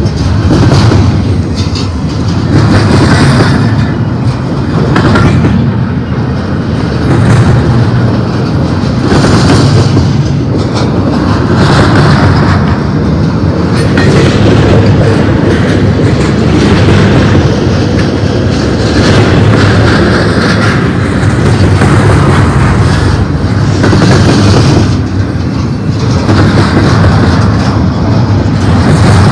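Double-stack intermodal well cars of a freight train rolling past close by: a loud, continuous rumble and clatter of steel wheels on rail, swelling and easing every two seconds or so.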